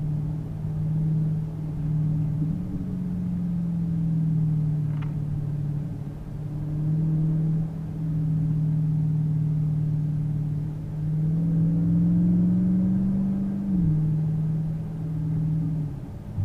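Car engine humming steadily under road rumble while driving on a highway, its pitch creeping up a few times and dropping suddenly near the end.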